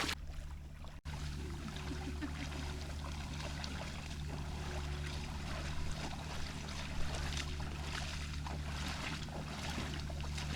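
A steady low engine drone, running evenly, after a brief cut in the sound about a second in.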